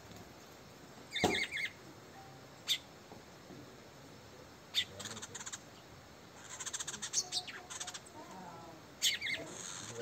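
Small birds at a feeder giving short, sharp chirps and calls in scattered bursts, with a thump about a second in mixed with the loudest call.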